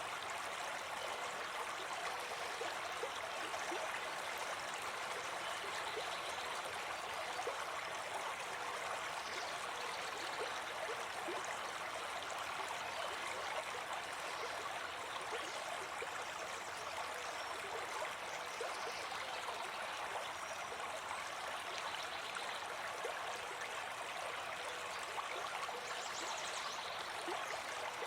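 A brook babbling steadily, its running water an even, unbroken rush.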